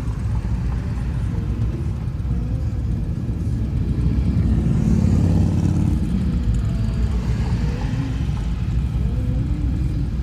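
Low rumble of slow traffic with motorcycle engines among it, heard from inside a minivan with its windows partly down; it swells briefly about four seconds in.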